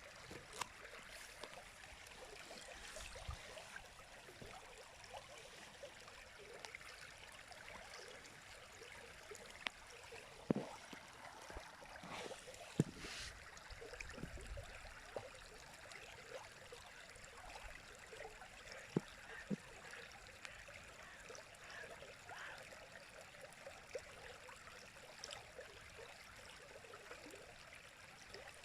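River water flowing in a steady, faint rush, dotted throughout with short plops and splashes. A few sharper ones come around the middle.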